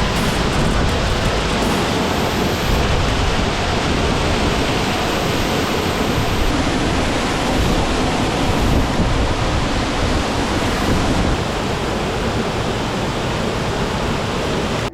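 Waterfall pouring into a pool: a loud, steady rush of falling water, an even hiss spread across high and low pitches, dipping slightly in level about eleven seconds in.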